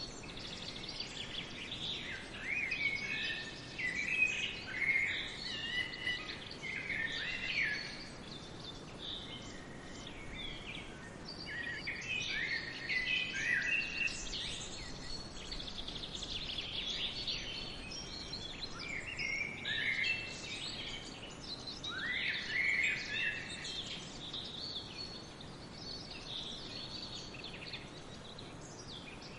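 Several small songbirds chirping and singing together, many short overlapping notes and quick glides coming in clusters, over a faint steady hiss.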